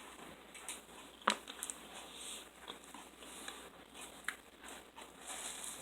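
Faint eating sounds: quiet chewing and mouth noises with a few small, sharp clicks, the clearest about a second in and again about four seconds in.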